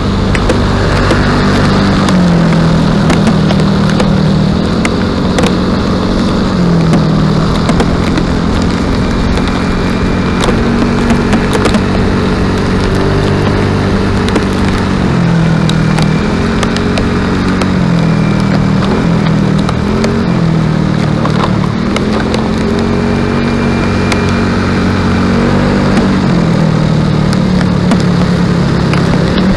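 An engine running under way, its pitch dropping and climbing back several times as it changes speed, over a steady rushing noise.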